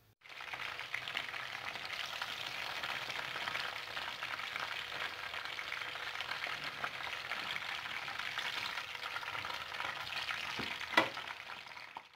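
Breaded chicken sticks on skewers frying in hot oil in a pan: a steady crackling sizzle. A single sharp click sounds about eleven seconds in.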